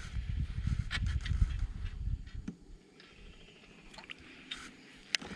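Low, uneven rumbling of a kayak on the water for about two and a half seconds, then it drops away, leaving faint water sound and a few light clicks.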